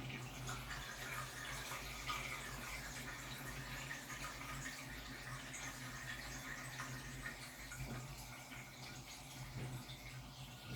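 Samsung Wobble 14 kg top-loading washing machine at work, water running and splashing in the drum over a steady low hum.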